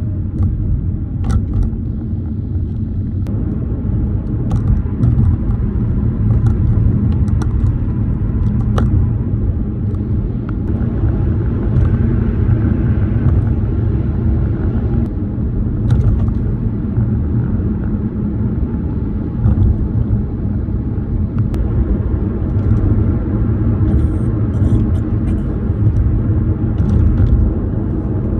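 Tyre and road noise heard from inside a moving car's cabin: a steady low rumble, with scattered rattles from the car's worn plastic trim and phone mount.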